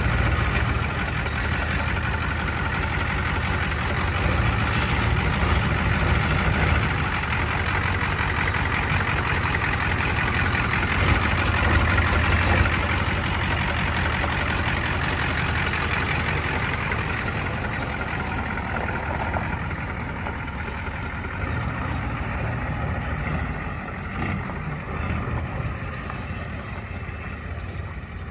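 Ford 7.3 IDI turbo diesel V8 engine running at a steady idle, newly brought back to life after sitting for years. It gets a little quieter over the last several seconds.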